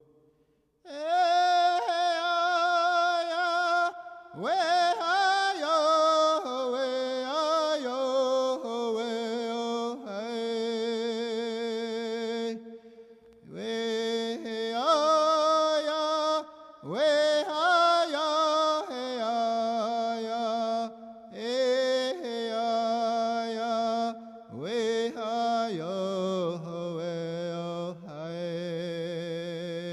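Music: a solo voice chanting a slow, wordless-sounding melody, with long wavering notes and upward slides into each phrase, broken by short pauses.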